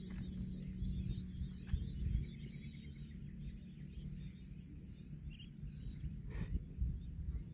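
Outdoor rural ambience: faint bird chirps in the first half over an uneven low rumble, with a steady high-pitched hiss throughout.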